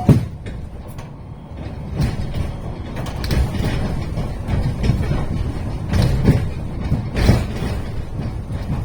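Iyo Railway streetcar running on its rails, a steady low rumble broken by sharp wheel knocks over the track, about five in all, bunched near the middle and end.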